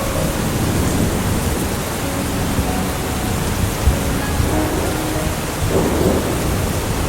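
Steady rain hissing with low thunder rumbling under it, and one short thump about four seconds in.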